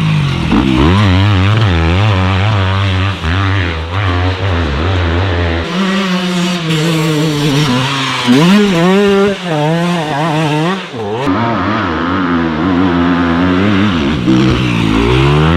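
Enduro motorcycle engine revving up and down over and over, its pitch rising and falling about once or twice a second. A steady low drone runs underneath and drops out about six seconds in.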